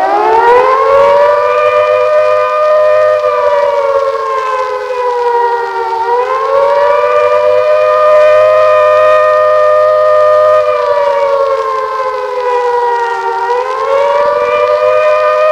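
Air-raid warning siren wailing loudly, its pitch sweeping up, holding, then sagging and rising again about every seven seconds: the wartime warning signal that enemy aircraft are approaching.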